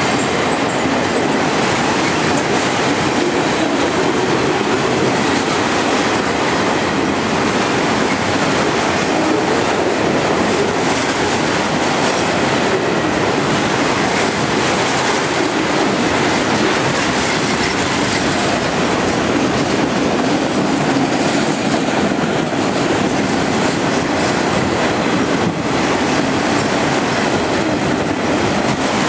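Freight train of empty auto-rack cars rolling past at close range: a loud, steady rush and clatter of steel wheels on the rails.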